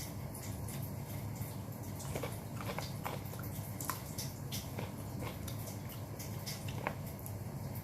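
Close-miked chewing of grilled chicken, with scattered wet mouth clicks and smacks over a steady low hum.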